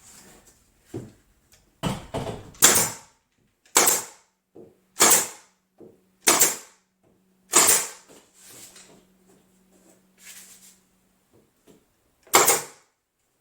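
Pin nailer firing small pins into a wooden door, about seven sharp shots at irregular intervals of one to a few seconds, each with a short hiss, driving pins to hold a glued repair.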